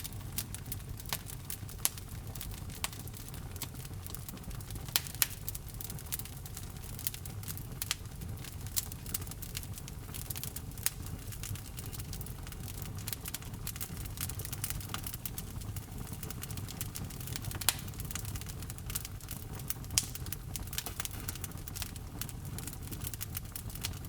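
Fire burning in a fireplace, crackling steadily over a low rumble of flame, with several louder sharp pops.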